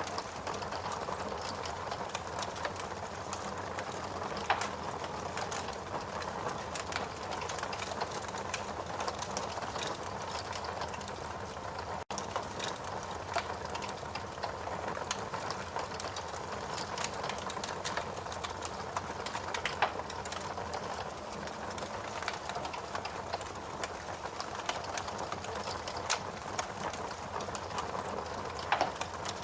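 Wood fire burning in a fireplace: a steady rushing hiss of flames with frequent sharp crackles and pops. There is a split-second dropout about twelve seconds in.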